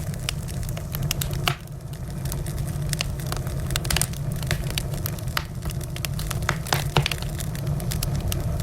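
Wood fire burning with a steady low rumble and frequent irregular sharp crackles and pops from the burning logs.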